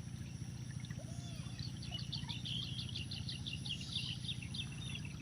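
A bird calling a rapid run of short, high chirps, about five a second, from about a second and a half in until about four seconds in, over steady low outdoor background noise.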